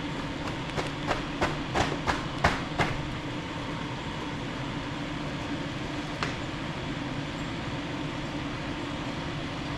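A quick run of small sharp clicks and taps, about eight in the first three seconds and one more near the middle, from tools and wire being handled at a soldering bench while a wire is fluxed and tinned. A steady hum runs underneath.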